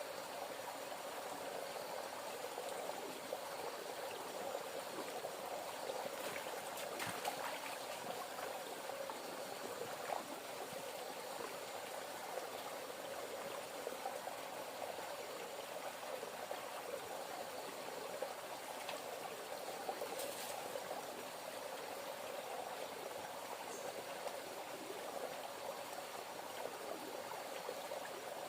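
Steady sound of water flowing or bubbling, with a few faint clicks.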